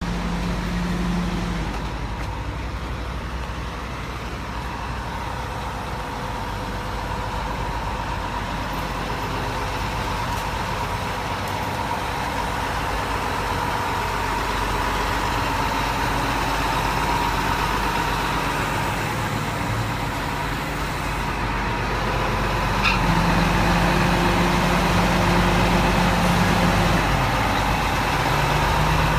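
Crane truck's diesel engine idling steadily, a low rumble with a steady hum, growing slightly louder about three quarters of the way through.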